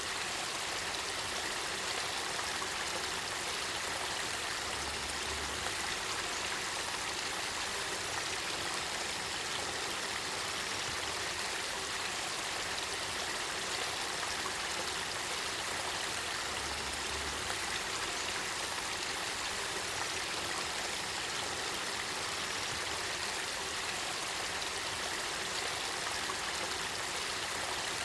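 Spring-fed river water flowing and babbling steadily, an even rushing sound with no change in level.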